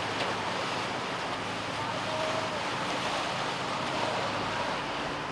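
Tugboat underway: a steady rush of water and wind over a low, even engine hum.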